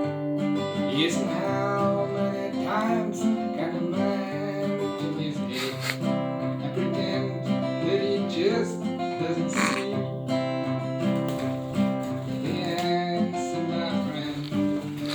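Acoustic guitar strummed steadily, holding chords.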